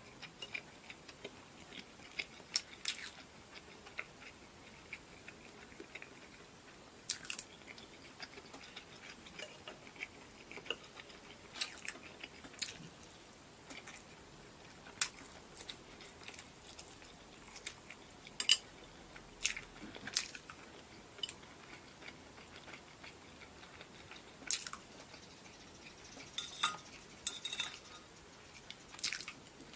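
Close-up eating sounds: chewing, with sharp clicks of wooden chopsticks against ceramic plates scattered throughout. A few louder clicks come around the middle.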